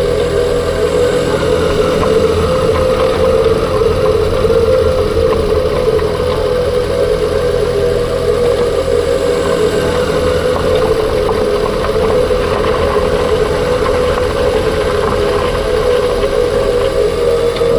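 2021 Ford Kuga plug-in hybrid's drivetrain running steadily with a mid-pitched whine held at a constant pitch over the engine's low rumble. The whine appeared after the clutch damper and flywheel were replaced.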